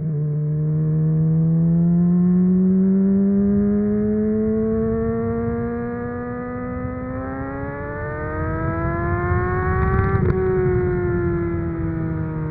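2008 Honda CBR600RR's 599 cc inline-four through a MIVV Suono aftermarket exhaust, pulling under throttle. Its pitch climbs slowly, then more steeply, to a peak about ten seconds in, with a brief sharp crackle at the top. The pitch then falls steadily as the throttle is rolled off.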